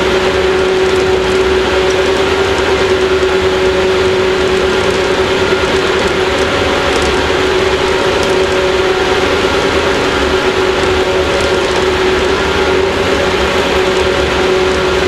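Inside a JR 115-series electric motor car running between stations: the MT54 traction motors and gearing give a steady whine of one held pitch over the rumble of the wheels on the rails.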